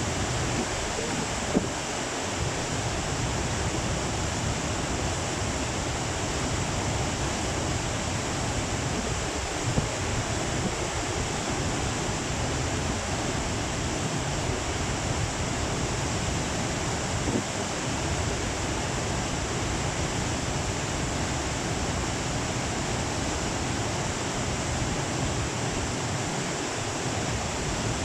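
Steady rushing of the Tama River in spate, swollen with floodwater after Typhoon Hagibis. Two brief knocks stand out, one near the start and one about a third of the way in.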